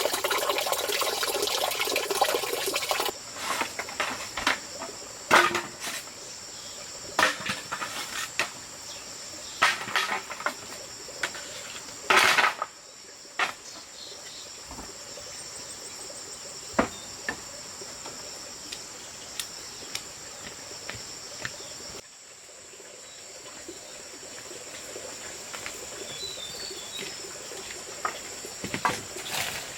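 Steady high-pitched insect chorus, crickets or similar, with scattered knocks and clatter of objects being handled. Running water splashes for the first few seconds.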